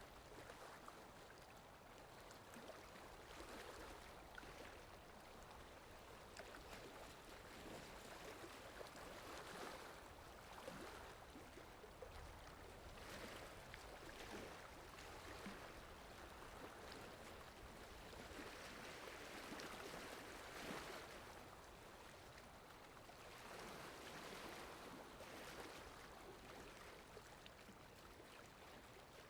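Faint flowing-water ambience sound effect, a steady wash that swells and eases every few seconds.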